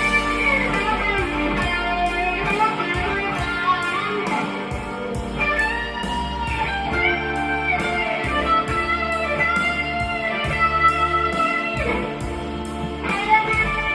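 Gretsch electric guitar playing an improvised lead, with long sustained notes that bend up and down in pitch over a steady low bass part.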